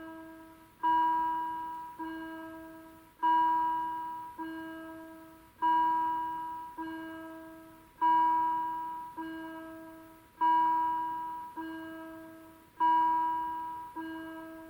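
Level crossing warning bell ringing, struck in pairs, a loud strike then a softer one about a second later, the pair repeating roughly every two and a half seconds, each strike ringing on as it fades. It is warning that a train is approaching the crossing.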